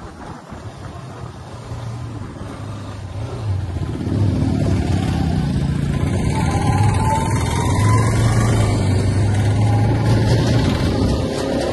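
Bajaj Pulsar RS200's single-cylinder engine running as the motorcycle rides off, getting louder about four seconds in.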